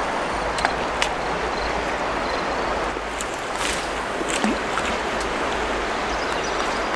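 Steady rush of river water, with a few small clicks and knocks over it.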